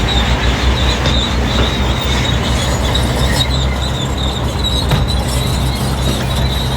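Crawler bulldozer working: the diesel engine runs steadily under load while the steel tracks give a continuous high metallic squeal.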